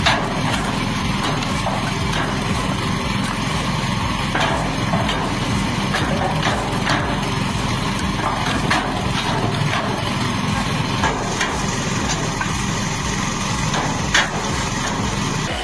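Engine-driven wood-splitting machine running steadily, with sharp cracks and knocks of wood being split every few seconds.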